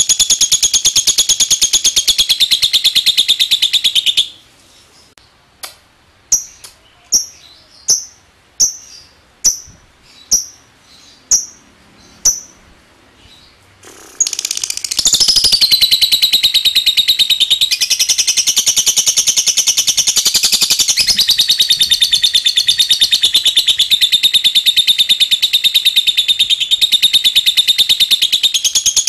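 Lovebird's long 'ngekek': a loud, very fast chattering trill that breaks off about four seconds in. About ten seconds of short separate chirps follow, roughly two a second, before the unbroken trill starts again about halfway through and carries on.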